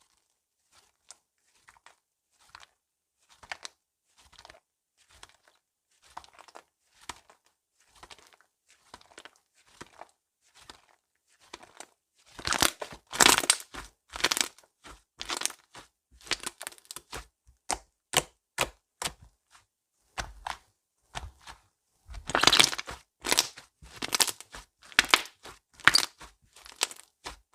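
Slime being squeezed and stretched by hand, giving irregular crackling, popping sounds. They are soft at first and get much louder from about halfway, with a dense loud flurry later on.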